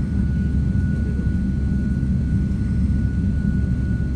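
Jet airliner engines running with a steady low rumble and a thin, steady high whine over it.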